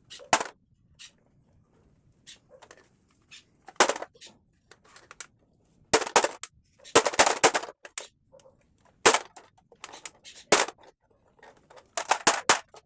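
Irregular sharp blows and cracking as a Roomba robot vacuum's plastic body is smashed apart. Some strikes fall singly and others come in quick clusters of rattling knocks, with short pauses between.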